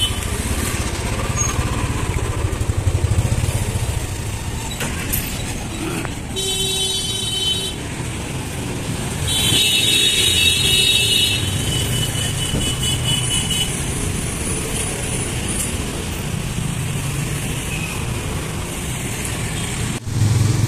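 Busy street traffic with motorcycles and cars running past, and two vehicle horns sounding in the middle, the second one longer.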